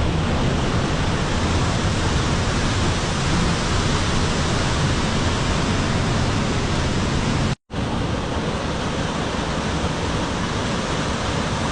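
Steady roar of rushing water, with no rhythm or distinct events. It breaks off for a split second about seven and a half seconds in, then resumes a little quieter.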